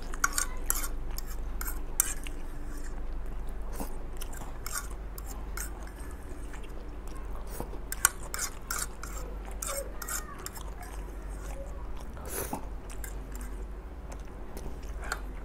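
A man chewing mouthfuls of instant fried noodles, with a metal fork scraping and clicking on a ceramic plate as he gathers the last bits. Two sharp clinks of the fork on the plate stand out, about 2 seconds and 8 seconds in.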